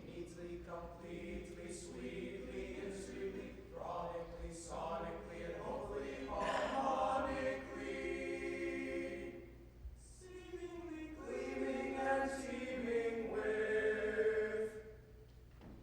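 High school choir singing sustained chords; the sound swells twice and stops just before the end.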